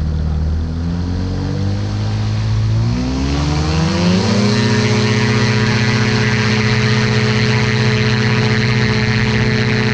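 Ultralight aircraft engine and propeller throttled up: the pitch climbs for about four seconds, then holds steady at high power.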